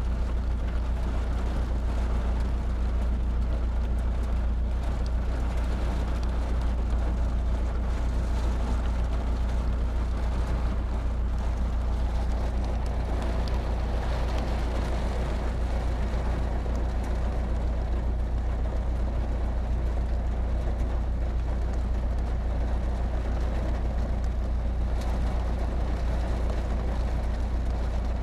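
Heavy rain pouring steadily during a thunderstorm, with a constant deep rumble underneath.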